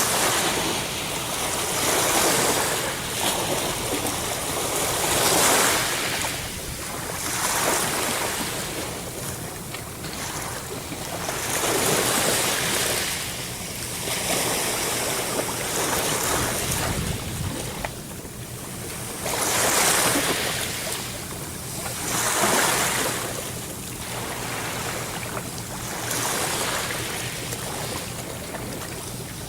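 Ocean waves breaking and washing on the shore, the surf swelling and fading every few seconds.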